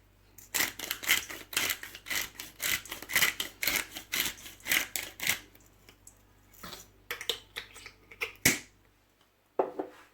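Spice shaker being shaken over raw chicken, a fast rhythmic rattle of about five shakes a second for several seconds, then a few scattered clicks and one sharp knock as the container is handled.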